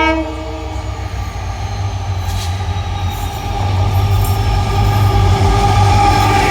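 Twin WDG4 diesel-electric locomotives, each with a 16-cylinder two-stroke EMD 710 engine, running with a deep steady hum that grows louder about halfway through, over rail and wheel noise with a faint high squeal. The horn cuts off just as it begins.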